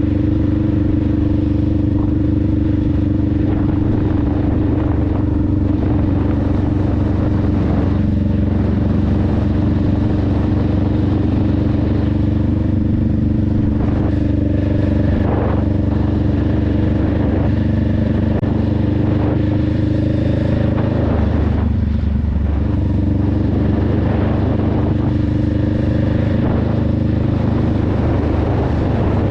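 Honda Rebel 500's parallel-twin engine running steadily while riding, its exhaust note holding an even pitch. The note dips and shifts briefly about two-thirds of the way through.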